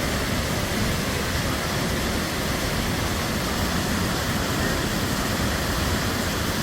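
Cheonjiyeon Waterfall: a steady, even rush of falling water.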